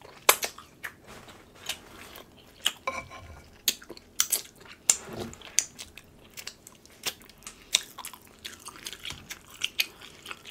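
Close-miked eating sounds: wet chewing, lip smacks and finger sucking on sauce-coated seafood, heard as a string of sharp, irregular clicks and smacks. A short low hum comes about five seconds in.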